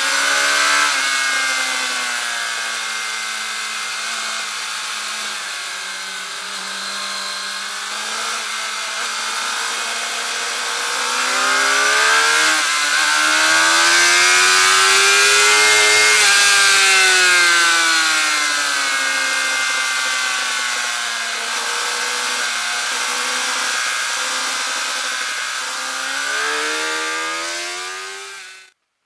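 Suzuki GSX-R 750 inline-four engine at speed on track, its note rising and falling repeatedly as the rider works the throttle through corners and straights. The sound cuts off sharply near the end.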